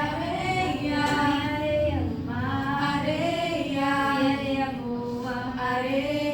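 Voices singing a melody in long held notes that step up and down in pitch.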